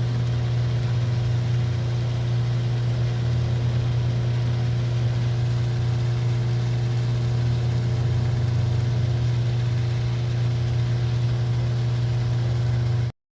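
A steady low mechanical hum, like an idling engine or machine, unchanging throughout and cutting off abruptly near the end.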